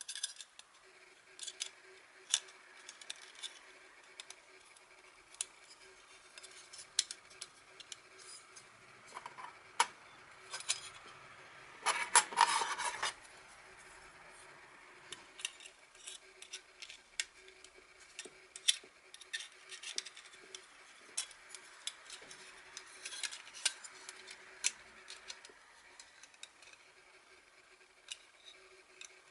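Light, scattered metallic clicks and clinks of thin stainless steel fire pit parts being handled, with a louder scraping, rustling burst about twelve seconds in.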